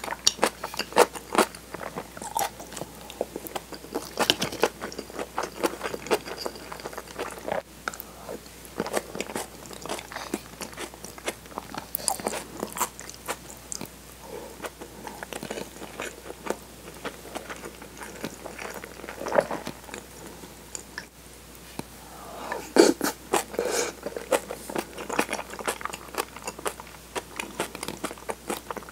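Close-miked chewing and crunching of a mouthful of kimchi, silken tofu, soft-boiled egg and rice, with many short sharp clicks and louder crunchy bites every few seconds.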